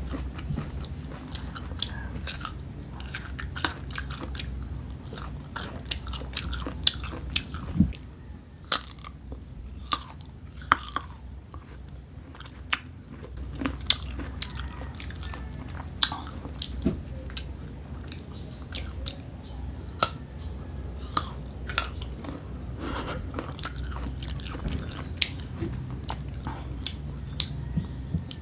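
Biting into and chewing slices of crisp unripe green mango, with many short, sharp crunches scattered throughout.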